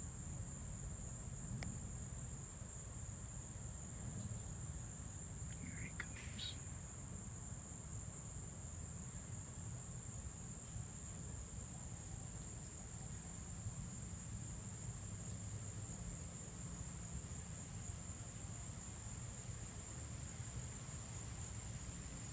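Steady high-pitched insect chorus over a low rumble, with one short chirp about six seconds in.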